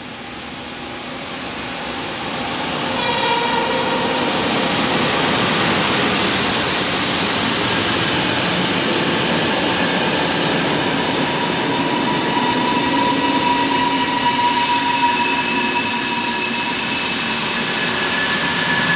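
Flåm Railway electric train running past, its steady running noise growing louder over the first three seconds. High steady wheel squeal sounds through the rest.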